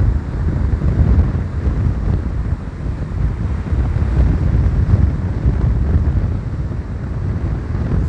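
Strong gusty wind buffeting the microphone in a loud, uneven low rumble, over the noise of stormy sea surf.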